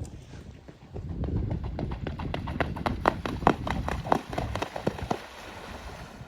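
A rapid run of sharp knocks, several a second, over a low rumble. The knocks are loudest in the middle and thin out towards the end.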